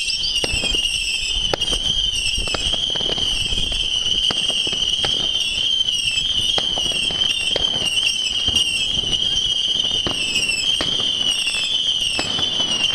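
Fireworks going off in large numbers: a continuous chorus of many overlapping high whistles that waver up and down, with frequent bangs and cracks scattered through it.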